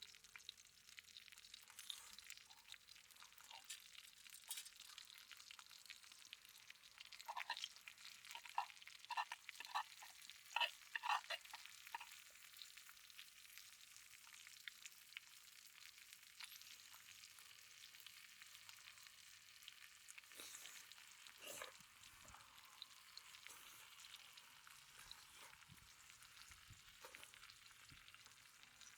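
Food frying in a pan, a faint steady sizzle with a run of sharp pops and spits between about seven and twelve seconds in, and a few more later.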